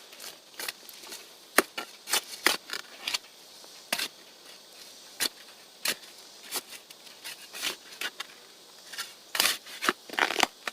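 Dry soil being mixed by hand into a planting hole: irregular scrapes and gritty crunches, several of them sharp.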